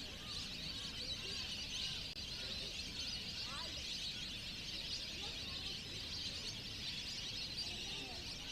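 A large flock of migratory waterbirds calling at once: a dense, steady chatter with many overlapping short whistled calls.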